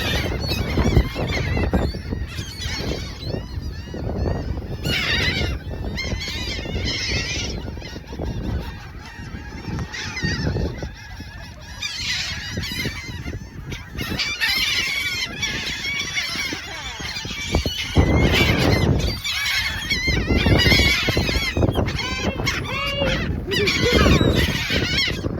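A flock of gulls calling over one another, many short arched calls overlapping, busiest in the second half, over a constant low rumble.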